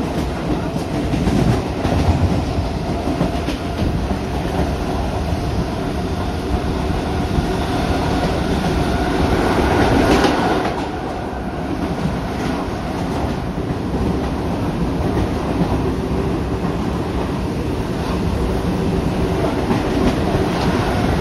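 Train running at speed, its wheels clacking over the rail joints, heard from an open window of the carriage.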